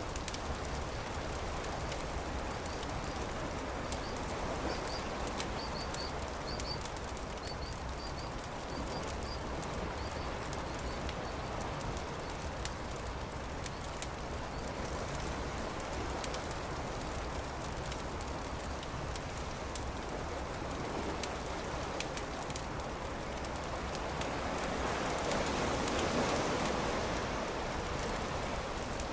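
Campfire crackling with frequent small pops over a steady rushing background that swells near the end. A bird chirps repeatedly in the first third.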